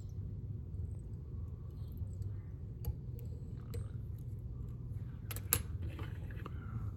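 Fly-tying tools handled while the thread is whip-finished at the hook eye: a few faint, light clicks, the sharpest about two-thirds of the way through. A steady low hum sits under them.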